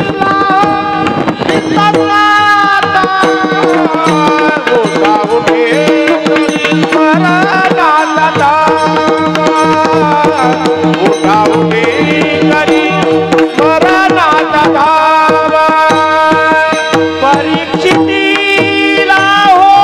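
Marathi kirtan music: a hand drum, heard as tabla, keeps up a fast rhythm under a held drone and a melody with sliding notes.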